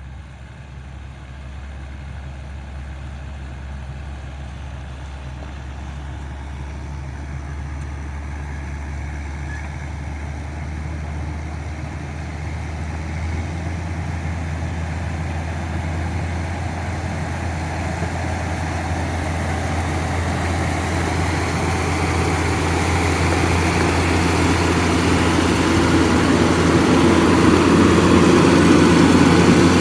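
Heavy engine of a construction machine or truck running with a steady low hum, getting steadily louder as mechanical noise builds.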